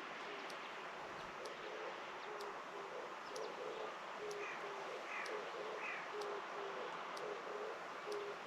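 Animal calls: a run of short, low hooting calls, several a second and from more than one caller, starting about a second in. Three quick falling chirps come in the middle, and faint high ticks recur about once a second.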